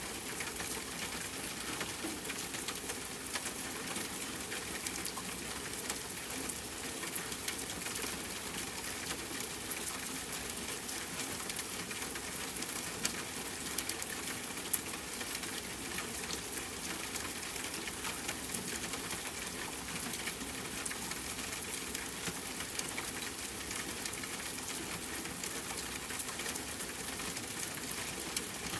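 Steady rain falling: a dense, even hiss full of small drop ticks, with one sharper drop about halfway through.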